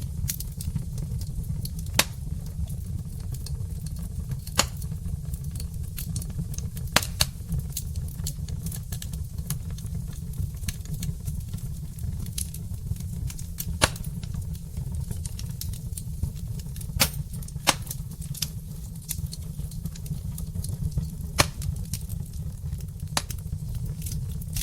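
Wood fire burning in a fireplace: a steady low rumble with sharp crackles and pops at irregular intervals, a few standing out louder than the rest.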